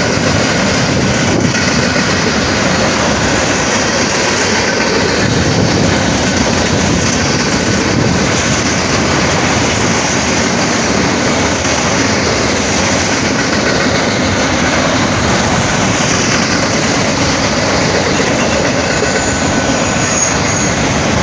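A train rolling past at close range, its cars and wheels clattering steadily over the rails.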